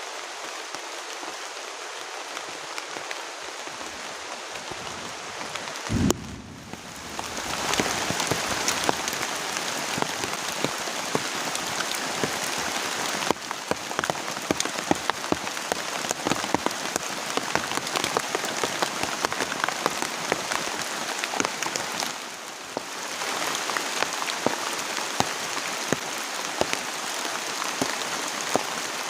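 Heavy rain falling steadily, thick with sharp individual drop hits on a near surface. A single low thump comes about six seconds in, and the rain briefly drops away twice.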